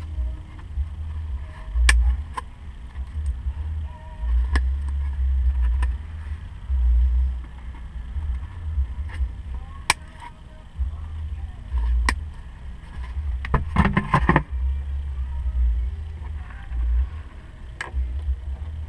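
Small clicks and taps of hands and a small flat tool working foam into a Honda S2000 soft top latch, with a quick run of clicks about 14 seconds in. Under them is a loud, uneven low rumble on the microphone.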